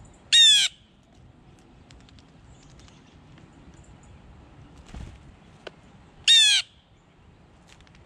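A bird calling twice, about six seconds apart; each call is a short, loud, harsh note that falls in pitch. A faint thud and a click come between them.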